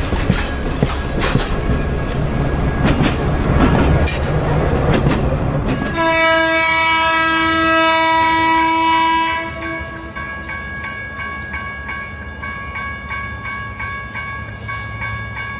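A train rumbles and clatters along. About six seconds in, the locomotive sounds one long blast, loud for about three seconds, then held more softly to the end.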